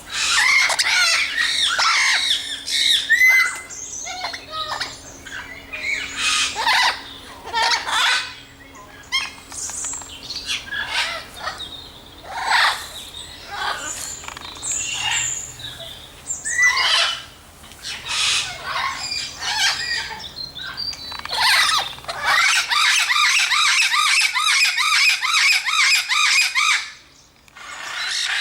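Captive birds calling and squawking in separate loud calls. Near the end the sound changes abruptly to a dense, fast twittering of many birds at once.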